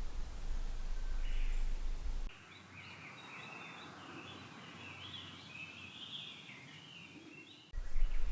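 A low wind rumble on the microphone cuts off abruptly. About five seconds of quieter woodland follow, with small birds chirping, and then the rumble cuts back in.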